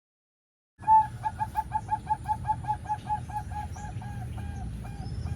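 Male zebra dove (perkutut) calling: a rapid run of short notes, about five a second, starting about a second in, then slowing and softening into longer, drawn-out notes. A low background rumble runs underneath.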